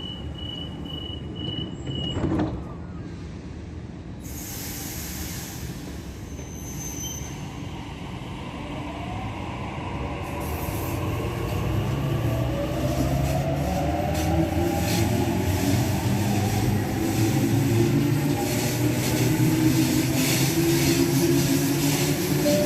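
Sydney Trains Waratah electric train departing the platform: a run of short high beeps at the start, a burst of air hiss about four seconds in, then the traction motors whine rising in pitch as it pulls away, growing steadily louder.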